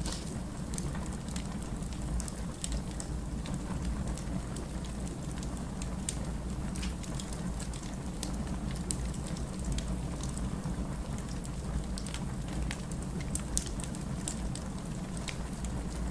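Firewood burning: a steady low rumble of flames with frequent small crackles and pops, one sharper pop about thirteen seconds in.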